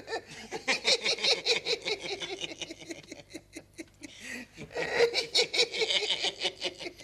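Several voices chattering and laughing indistinctly, with a short lull midway.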